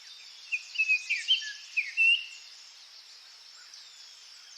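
Songbirds chirping over a steady high hiss of outdoor ambience, with a run of short, quick chirps in the first two seconds that then thin out.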